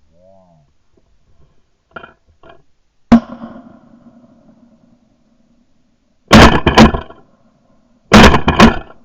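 Three shotgun shots. A sharp one comes about three seconds in, with a ringing tail. Two longer, heavier blasts follow, about two seconds apart, near the end.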